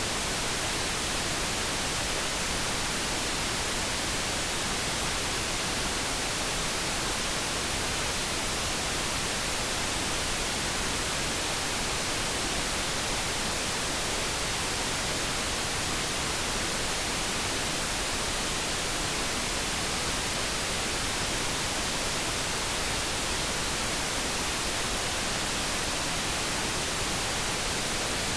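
Light brown noise: a steady, even synthetic hiss that does not change.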